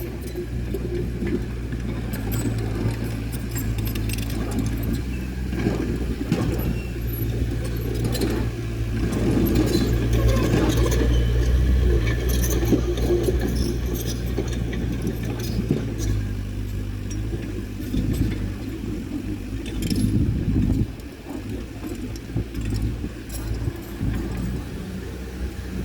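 Diesel engine of heavy earthmoving machinery running steadily, with repeated metallic clinking and clanking over it. The engine note changes about two-thirds of the way through.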